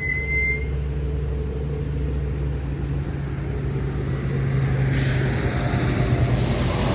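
Street traffic: a large vehicle's engine running steadily close by, with a short high tone at the start and a sudden loud hiss breaking in about five seconds in.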